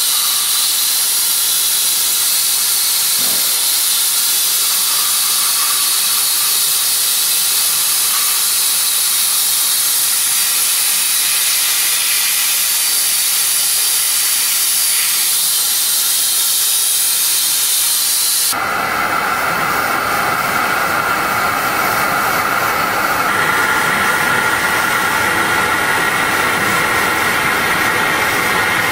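IBIX 9 sandblaster blasting 80-mesh garnet through a 4 mm nozzle onto car bodywork: a loud, steady hiss of air and abrasive. About 18 seconds in, it changes abruptly to a coarser, fuller hiss.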